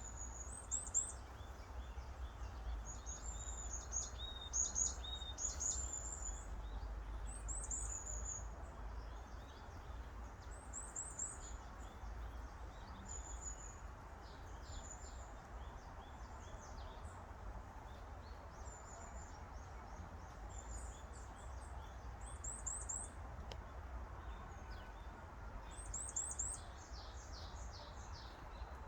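Wild songbirds singing, short high-pitched chirping phrases coming in bursts every few seconds, over a steady low rumble.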